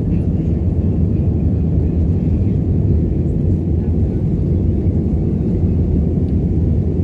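Steady low roar of a commercial jet airliner's engines and airflow heard from inside the cabin as the plane climbs after takeoff.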